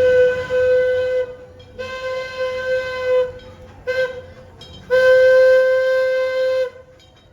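Steam whistle of the Rio Grande, a Western River Railroad steam locomotive, blowing one steady note in two long blasts, one short blast and a final long one. This is the pattern of the standard grade-crossing signal.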